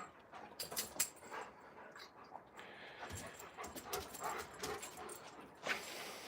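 Alaskan malamutes playing rough, panting, with scattered short scuffs and clicks.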